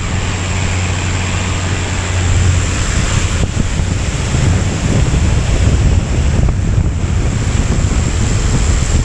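Strong wind buffeting the camera microphone: a loud, steady rush, with a low hum under it for the first two seconds or so.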